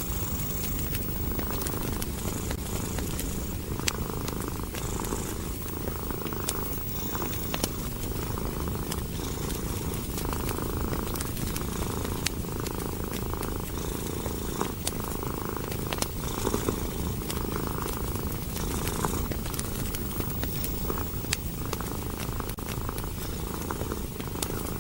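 Domestic cat purring steadily and closely, swelling and easing with each breath about once a second, with the scattered sharp pops and crackles of a wood fire.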